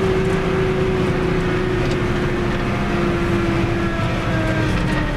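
Fiat 110-90 tractor's six-cylinder diesel engine running on the move, a steady drone whose pitch slowly sinks as the revs ease off.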